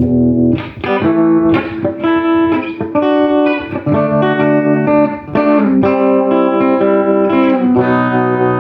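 Electric guitar played through a 1968 Fender Super Reverb tube amp: a held chord rings, then a run of picked notes and chords.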